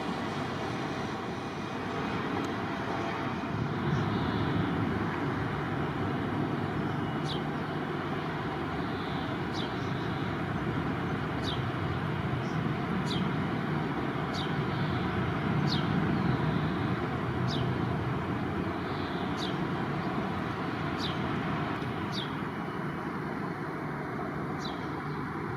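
Jet aircraft engine noise, a steady rushing sound that swells a little and eases, with a short high falling chirp repeating about every two seconds.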